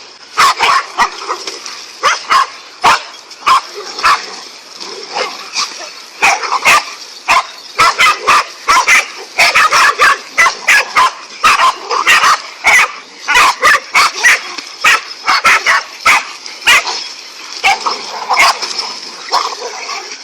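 Dogs barking and yipping rapidly and excitedly, a long run of sharp barks that comes thickest in the middle, at something they want to catch.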